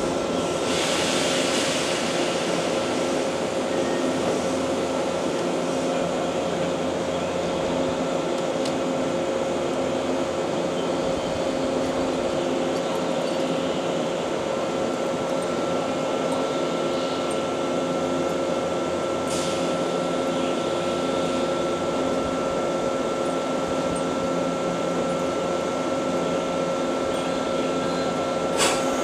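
Steady hum and whine of a Nankai 7100-series electric train standing at the platform, its auxiliary and air-conditioning equipment running. A brief click is heard twice, once about two-thirds of the way in and once at the very end.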